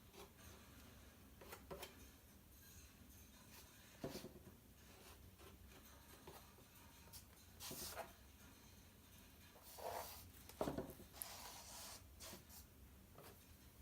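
Near silence: room tone with a few faint, scattered rubs and light knocks from handling painting materials.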